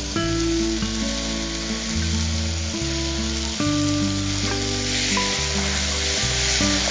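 Beetroot and spice masala sizzling in an open pressure cooker as green peas are stirred in with a wooden spatula; the sizzle grows louder about five seconds in. Background music of held notes runs underneath.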